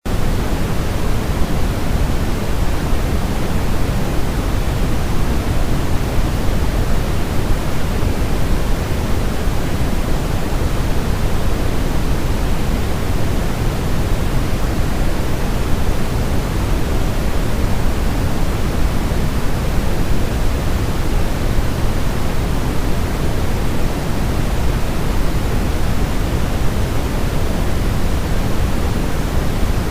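Steady, unbroken white noise of the pink kind: an even hiss weighted toward the low end, without any change in level.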